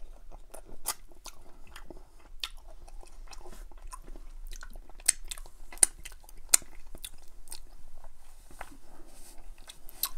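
Close-miked biting and chewing of crispy fried chicken drumsticks in butter chicken sauce: wet mouth sounds with many sharp crunchy clicks, and a few louder crunches just past halfway.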